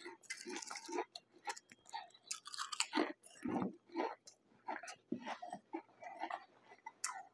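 Close-miked chewing of crisp potato chips: irregular crunches, several a second, with brief pauses between mouthfuls.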